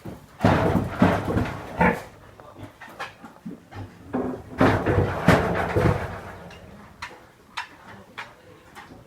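Pigs grunting in two bouts, one starting about half a second in and another around four seconds in, with a quieter stretch between.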